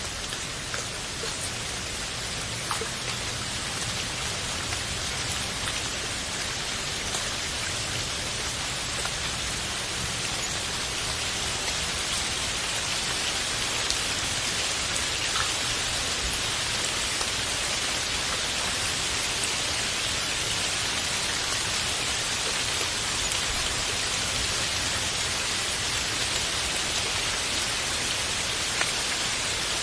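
Steady rain falling on a surface, a dense even hiss with occasional single drops ticking through it.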